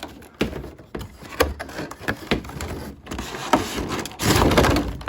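Plastic packaging and cardboard being handled as a boxed figure is pulled out of its box: a run of sharp clicks and scraping, with a louder stretch of rustling near the end.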